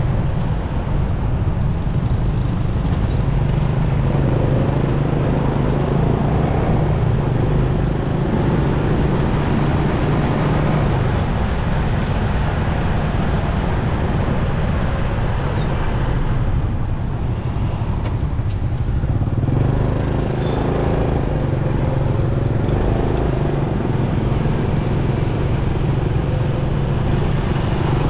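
Motorcycle engine running steadily while riding in traffic, its low hum shifting slightly in pitch with throttle, over constant road and wind noise.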